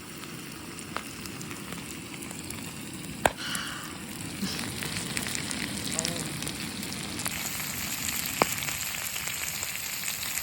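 Food sizzling as it fries, a steady crackling hiss with a few sharp clicks, the loudest about three seconds in.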